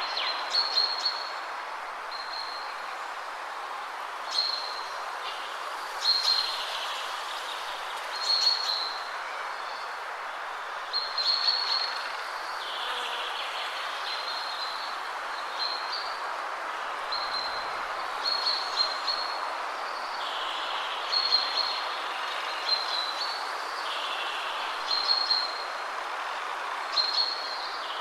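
Wind blowing steadily through trees, with a songbird repeating short, high calls every second or two over it.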